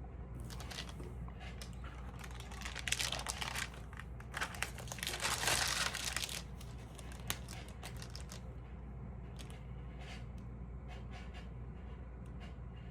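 Stamp album pages being handled and turned, with crinkling rustles in several bursts, the longest about five to six seconds in, and a few light clicks.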